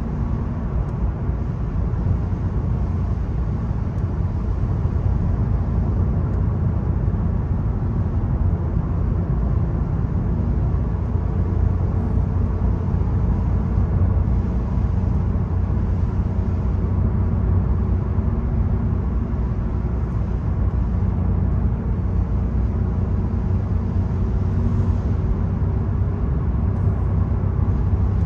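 Volkswagen Golf's 1.0 TSI three-cylinder turbo petrol engine pulling steadily while driving, with a constant low drone and road noise.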